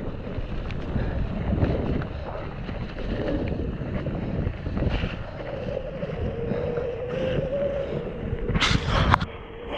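Mountain bike descending a wet, muddy trail, heard from a bike- or rider-mounted camera: wind buffeting the microphone over the rumble and knocks of tyres and frame on rough ground. About halfway a steady tone comes in, and near the end there is a brief sharp hiss.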